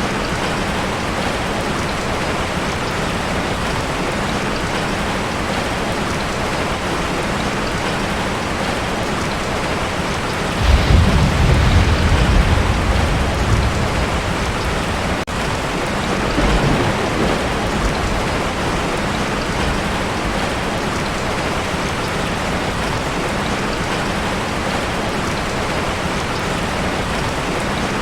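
Heavy rain drumming steadily on a tin roof. Thunder rumbles a little over a third of the way in for a few seconds, with a smaller rumble shortly after.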